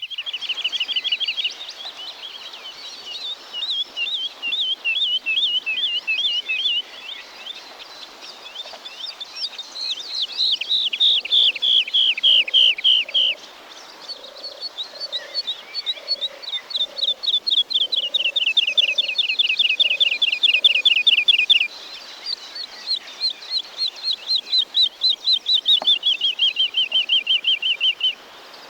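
Woodlark singing: about five phrases, each a fast run of repeated notes, several of them sliding down in pitch, with short pauses between. Another bird's faint low notes repeat in the background through the middle.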